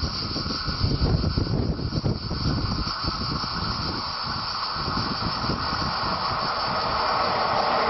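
An electric locomotive hauling a freight train of tank wagons approaches, and its rolling noise grows steadily louder over the second half. Uneven wind rumble on the microphone sits underneath, strongest early on.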